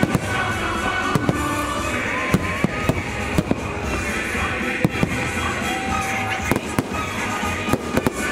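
Fireworks going off in a rapid run of sharp bangs, about two a second, over loud show music.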